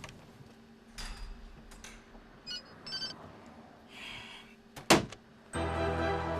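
A few scattered knocks and clicks, a cluster of short high electronic beeps around the middle, and one sharp knock near the end, followed by background music starting just before the end.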